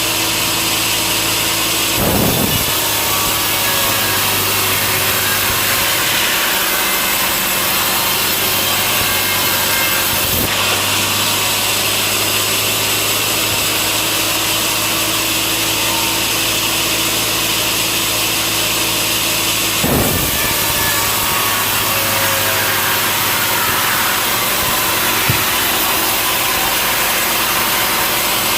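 Sawmill saw cutting through a large log into slabs, a steady machine noise with a few brief knocks about 2, 10 and 20 seconds in.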